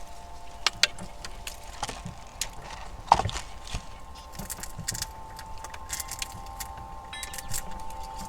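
Several steady metallic ringing tones, with scattered light clicks and tinkles and one louder knock about three seconds in.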